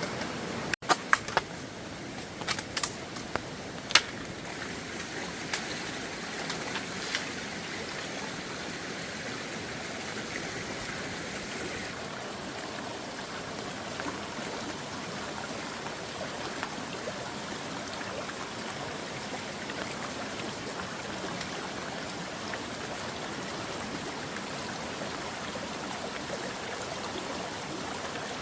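Steady rush of running water, with a few sharp clicks and knocks in the first four seconds.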